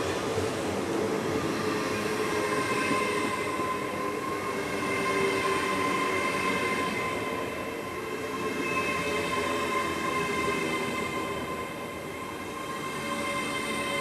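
A train moving through the station: a steady rumble with a high whine of several held tones over it.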